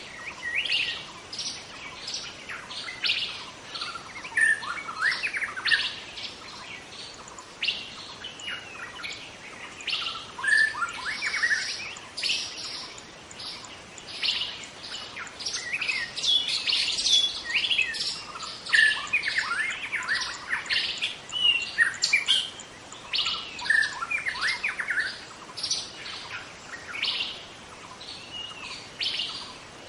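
Young wild-caught white-rumped shama singing continuously: a rapid, varied run of short whistles, chirps and trills with frequent pitch glides, broken by brief pauses.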